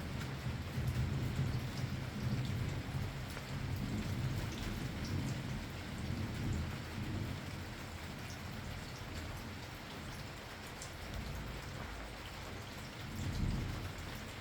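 Steady rain falling, with a low rolling rumble of thunder that is strongest in the first half, fades, then swells briefly near the end.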